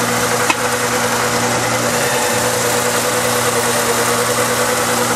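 A 2001 Saturn's 1.9-litre four-cylinder engine idling steadily, heard from beneath the car with its exhaust carried outside by a hose. There is a single click about half a second in.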